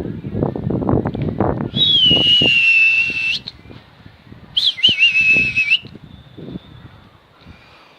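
A person whistling two long, steady notes, the first sliding down from a higher start and the second wavering as it begins. Rustling and knocking sounds fill the first couple of seconds.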